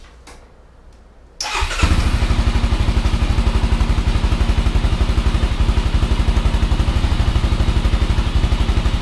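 1999 Honda 400EX ATV's single-cylinder four-stroke engine with its stock muffler, starting about a second and a half in and then idling with steady, even exhaust pulses.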